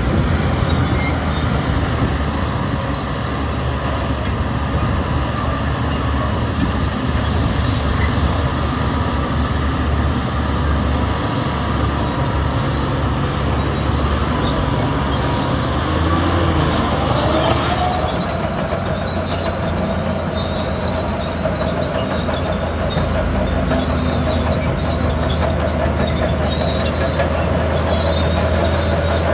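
Bulldozer's diesel engine running steadily, with a squeal from its steel crawler tracks that settles into a steady high whine about two-thirds of the way through.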